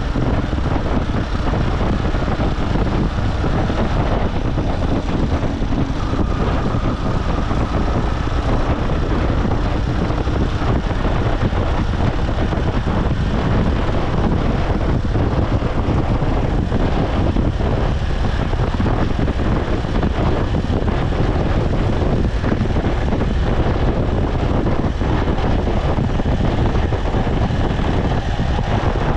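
Motorcycle engine running steadily under way, mixed with wind and road noise on the microphone.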